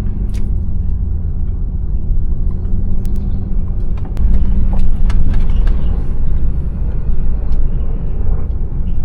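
Car driving slowly, its engine and tyre rumble heard from inside the cabin, with scattered light clicks and knocks; the rumble grows louder for a couple of seconds about four seconds in.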